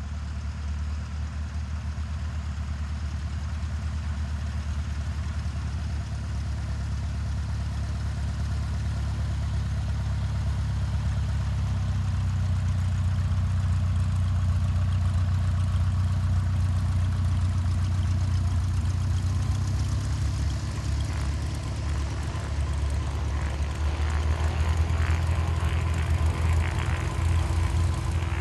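An engine running steadily at a low, even pitch, slowly growing louder.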